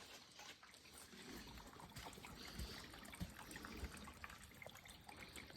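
Faint trickle of water seeping out of a rock face, with scattered small drips.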